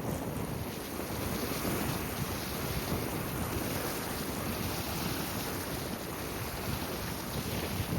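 Strong wind of about Beaufort 4–5 buffeting the microphone, a steady rumbling rush, with waves on open water.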